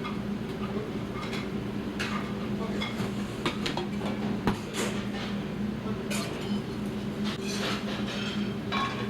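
Restaurant kitchen clatter: pans, dishes and utensils clinking and knocking at irregular moments over a steady low hum.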